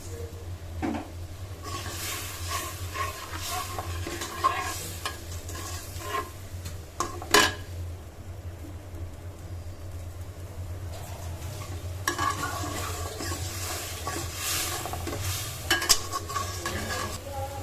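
Spoon scraping and stirring onions and spice paste frying in oil in a pan, sizzling, in two spells of stirring. The spoon knocks sharply against the pan about halfway through and again near the end. The spices are being fried down with a little water.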